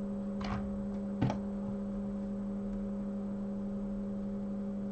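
Steady electrical hum, one low tone with fainter overtones above it, with two light taps about half a second and just over a second in.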